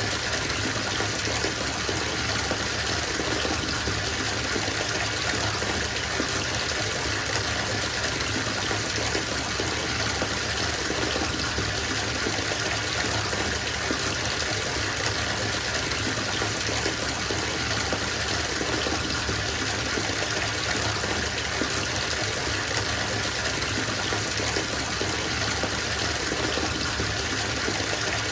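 Water running from a tap into a bathtub, a steady, even gush of water pouring into the filling tub.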